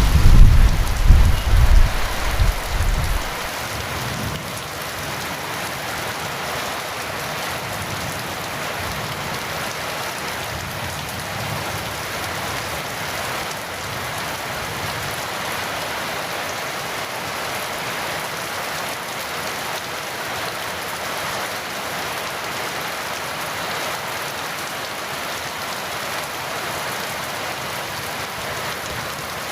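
Heavy rain falling in a steady hiss. A low rumble of thunder dies away in the first three seconds or so.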